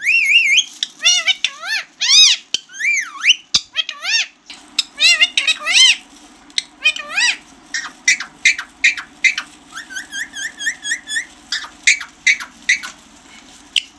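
Ring-necked parakeet calling and chattering: rapid runs of high calls that rise and fall in pitch, with a quick string of short rising notes around ten seconds in.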